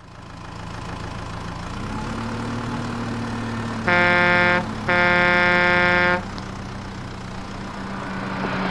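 A truck engine running with a steady low hum that rises a little in pitch about two seconds in, then two horn honks: a short one about four seconds in and a longer one right after.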